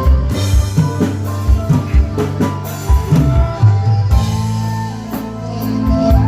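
Music with a drum kit and a heavy bass line played loud through a large concert sound system during a sound check.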